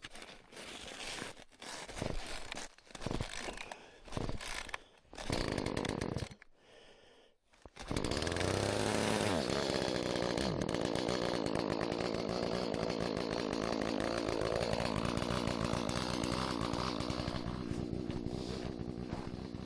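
A two-stroke chainsaw is started: several seconds of irregular handling and pull-cord noises, then the engine catches abruptly about eight seconds in. Its pitch drops briefly, and it then runs steadily.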